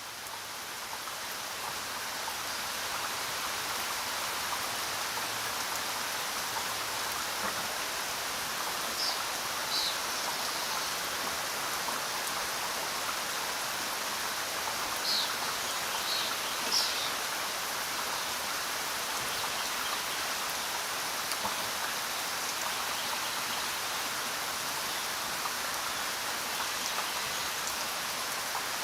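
Steady rainfall, an even hiss of rain, swelling in over the first few seconds. It is dotted with a few brief high sounds in the middle.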